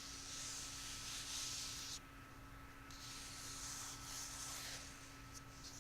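Faint rubbing or scratching over an object's surface: one long stroke of hiss, a pause of about a second, a second long stroke, then a few faint clicks near the end.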